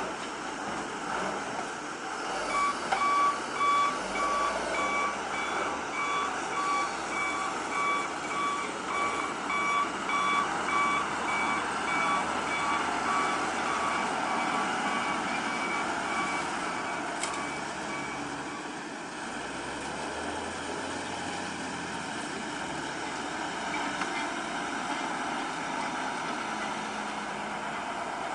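A vehicle's reversing alarm beeping in a steady even row, starting a couple of seconds in and stopping after about sixteen seconds, over the continuous running of heavy machinery.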